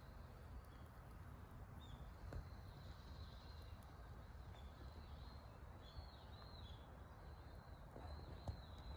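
Faint outdoor ambience with a small bird chirping in short repeated high notes, mostly in the second half, and a couple of soft clicks.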